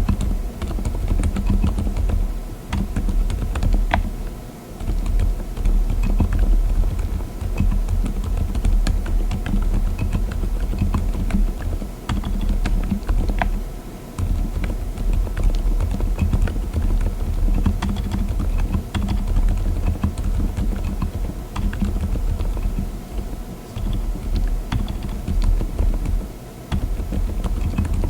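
Typing on a mechanical keyboard fitted with Lime silent tactile switches (35 ± 10 gf): a fast, continuous run of muffled, damped keystrokes, broken by a few short pauses.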